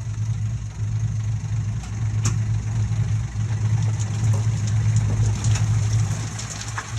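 Komatsu D20P bulldozer's diesel engine running steadily at a low idle, an even low hum with a few faint clicks.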